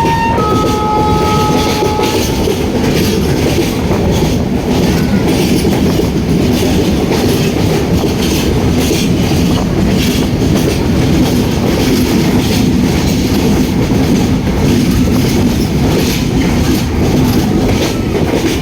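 Passenger train running along the track, a steady loud rumble of wheels on rails with clickety-clack. A horn-like tone sounds at the start, changes pitch and stops about two seconds in.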